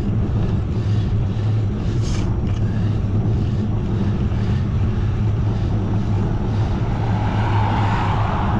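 Wind rushing over the microphone of a camera on a moving bicycle, a steady loud low rumble with road noise under it. A higher hiss swells for a second or so near the end.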